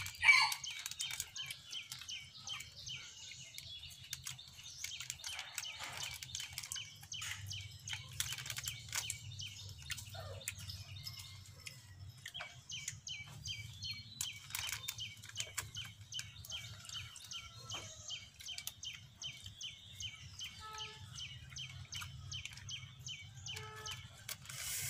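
Small birds chirping in long rapid runs of short high notes, over a low steady hum, with scattered faint clicks.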